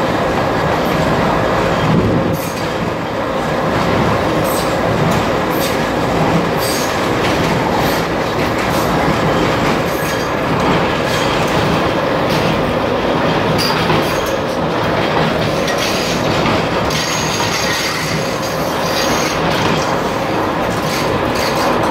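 Passenger train running along the track, heard from on board: a steady rumble of wheels and carriage with scattered sharp clacks from the rails.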